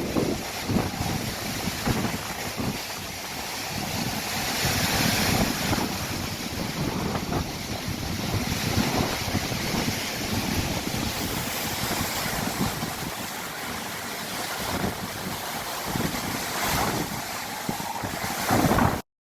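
Hurricane wind blowing hard in gusts, buffeting the microphone with low rumbles; the sound cuts off abruptly near the end.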